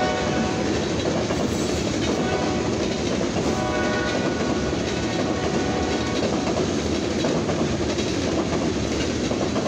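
Freight train of covered hopper cars running past a grade crossing at about 39 mph: steady, loud wheel-on-rail noise, with a brief tone about three and a half seconds in.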